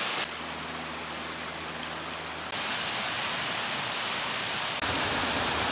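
Steady rush of water from a creek waterfall, jumping abruptly in loudness twice, with a faint low hum in the quieter stretch early on.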